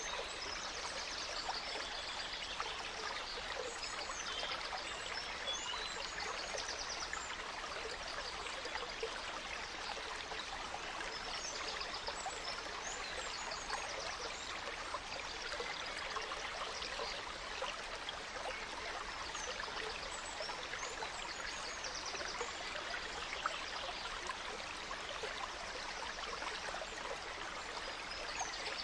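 A gentle stream flowing steadily, with small forest birds chirping and trilling over it at intervals: in the first few seconds, again around the middle, and near the end.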